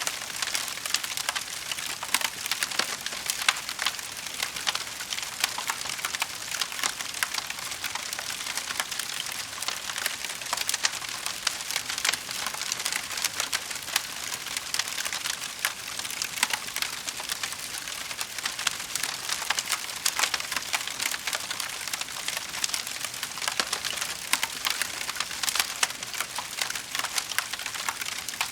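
Wood fire crackling steadily in a fireplace: a dense stream of small sharp pops and snaps over a soft hiss.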